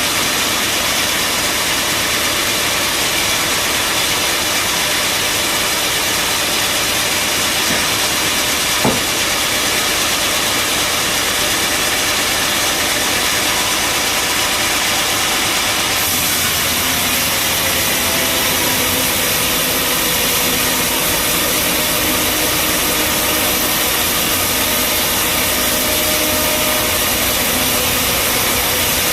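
Bandsaw sawmill running steadily, with one sharp knock about nine seconds in. About halfway through the sound changes, turning brighter and hissier with a steady hum added.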